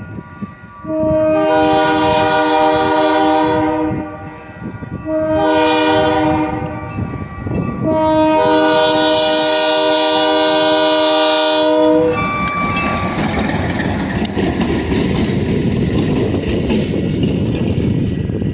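Diesel locomotive's air horn, a chord of several notes: a long blast, a shorter one, then a final long blast of about four seconds, in the pattern of a grade-crossing signal. Once the horn cuts off, the locomotive passes close with loud engine and wheel-on-rail noise.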